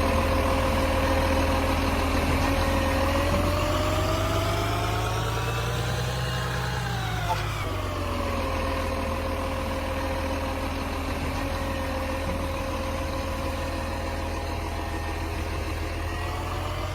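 Garbage truck engine idling, revving up for a few seconds about three seconds in and settling back to idle, then starting to rise again near the end.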